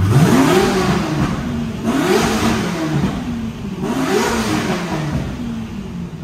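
A car engine revved three times, about two seconds apart, each rev rising quickly in pitch and falling back.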